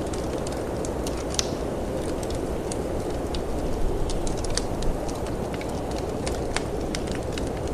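Wood fire in a fireplace crackling, with irregular sharp pops several times a second, over a steady low rush of storm wind.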